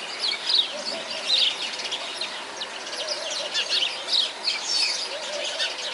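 Many small birds chirping, a dense run of quick, high, overlapping chirps and tweets without pause, heard in a zoo aviary.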